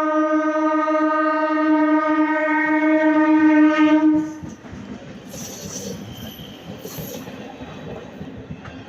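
Indian Railways locomotive horn sounding one long steady blast that cuts off about four seconds in, followed by the rumble and clatter of the train running through the station without stopping, with a couple of brief high squeaks.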